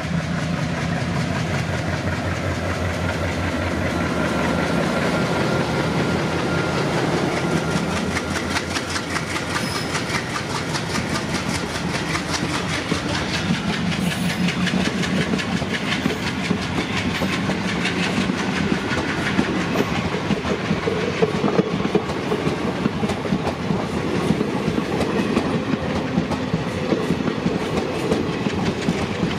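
Diesel-hauled train passing at speed. The locomotive's engine runs with a steady low hum that fades about eight seconds in, then a long string of coaches or wagons follows with rapid, even wheel clatter over the track.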